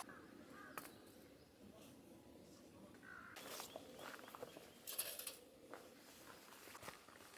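Faint, quiet forest ambience with scattered soft clicks and rustling, denser for a couple of seconds midway, and weak bird calls in the background.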